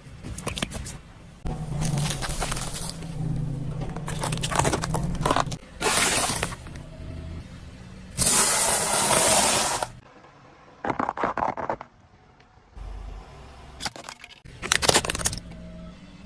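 Brittle objects crushed under a car's tyres: repeated bursts of crunching, cracking and snapping, with a short pause between each, and the car's engine running low under the first few.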